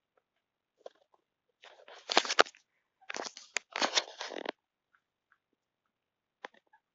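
Domestic cat making short noisy sounds with a few sharp clicks, in two bursts about two and three seconds in: the chattering a cat does when it has spotted prey, here a fly.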